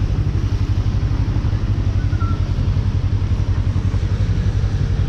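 Suzuki GSX250R's parallel-twin engine running at a steady, even speed, with a rapid low pulsing and no revving.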